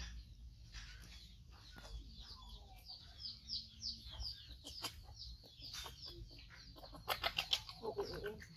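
A small bird chirping: a short, high, falling note repeated about three times a second, with a denser burst of chirps and clicks near the end.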